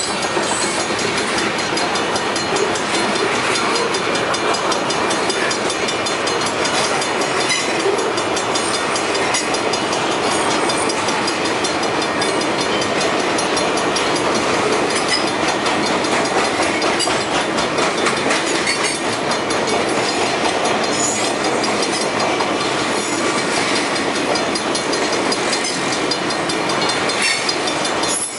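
A freight train's cars rolling past, a steady loud rumble with the continuous clatter of wheels over the rails.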